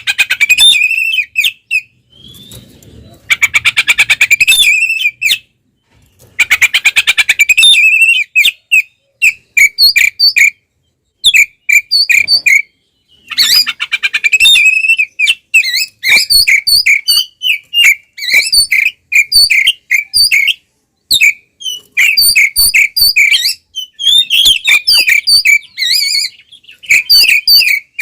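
Oriental magpie-robin (kacer) singing loudly in its full, aggressive fighting song: phrases of rapid buzzy trills alternating with runs of short whistled notes, with brief pauses between phrases.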